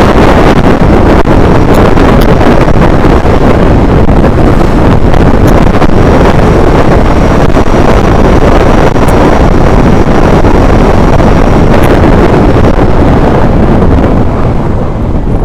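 Heavy wind buffeting the microphone, a loud constant rumbling roar that eases slightly near the end.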